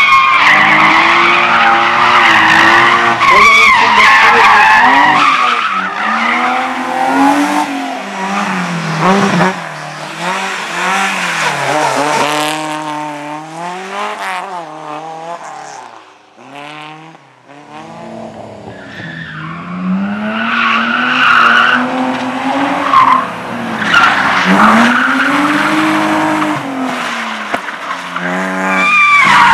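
A car on an autoslalom course, its engine revving up and dropping back again and again through the turns while its tyres squeal. About halfway through the sound fades almost away, then a car revs and its tyres squeal again, louder.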